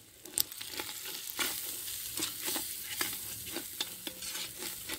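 Onions and masala frying in oil in a three-legged cast iron pot, sizzling, while a metal spoon scrapes and knocks against the pot as they are stirred. The sizzle gets louder about half a second in, just after a sharp knock.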